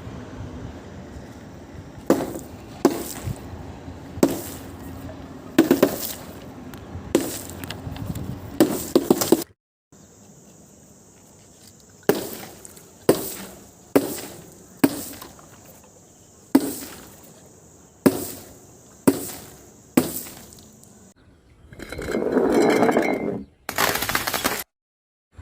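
Glass being smashed: a series of sharp breaking impacts about one a second, with abrupt cuts between runs of strikes and a longer crunch near the end.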